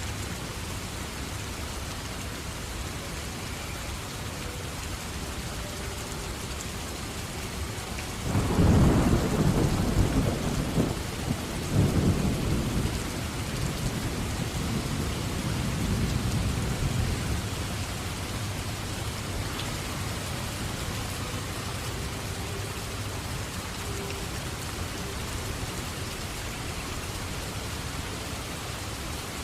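Steady heavy rain, with a roll of thunder breaking in about eight seconds in, swelling again a few seconds later and rumbling away over several seconds.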